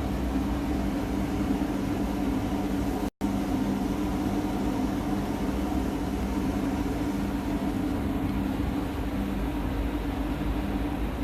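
A DPF cleaning machine running steadily with a constant low hum, with a momentary gap about three seconds in.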